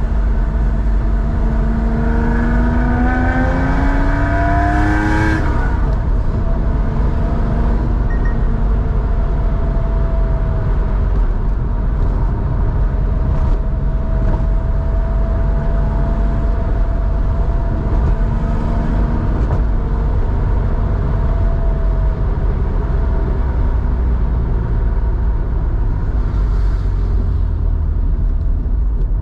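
1987 Porsche 911's 3.4-litre air-cooled flat-six through a Scart two-into-one-out muffler, pulling hard with its pitch rising for about the first five seconds, then dropping back to a steady drone with a strong low exhaust rumble.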